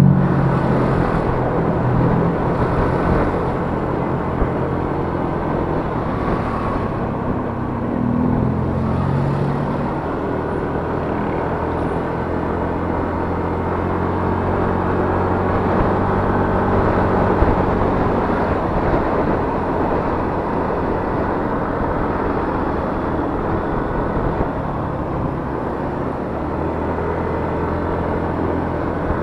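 Yamaha Mio S 125 cc scooter's single-cylinder engine running under way, with road noise. The engine note shifts up and down during the first ten seconds, then holds steady.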